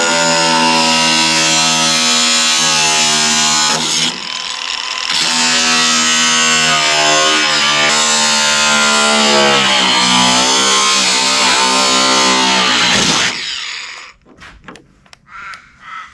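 Electric power tool motor running at a steady pitch, easing off briefly about four seconds in, its speed wavering under load, then winding down and stopping near the end.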